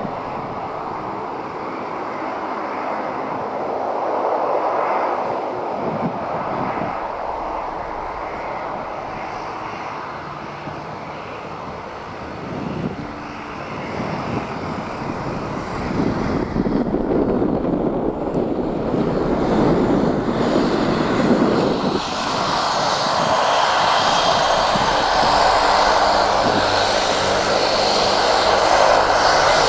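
A Boeing 737-300's CFM56 jet engines running at taxi power. About two-thirds of the way through, this gives way to a louder de Havilland Canada Dash 8-300 turboprop taxiing, with steady engine and propeller tones. Wind noise on the microphone is heard throughout.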